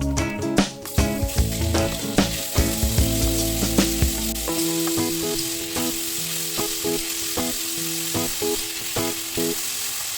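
Chicken frying in oil in a hot pan, sizzling steadily from about a second in, with scattered clacks of a spatula stirring it. Background music plays underneath.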